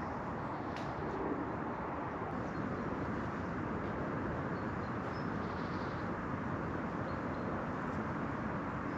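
Steady rushing outdoor noise at an even level, with no distinct events.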